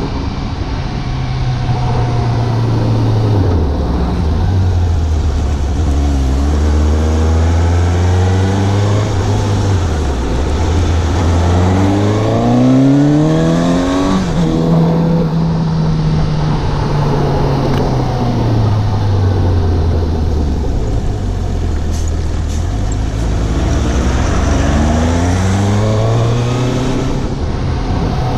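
Suzuki GSX750's inline-four engine under way, revs rising and falling with the throttle. The revs drop a few seconds in, climb steadily to a peak about halfway through, fall away slowly, and climb again near the end.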